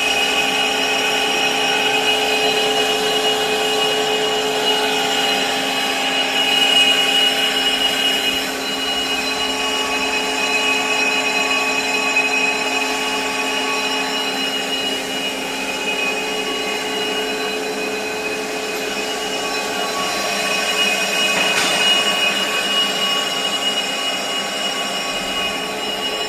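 Zanrosso brake lathe running and resurfacing a brake disc: a steady machine whine with several held tones over a rough hiss, swelling slightly about a quarter of the way in and again near the end.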